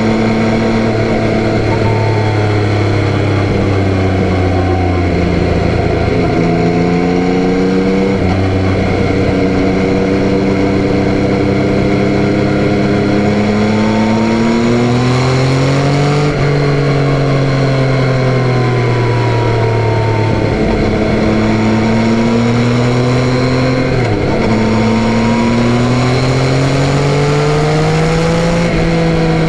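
Yamaha Tracer 9's 890 cc three-cylinder engine riding along, its pitch rising and falling with the throttle, with several sudden drops in pitch at gear changes.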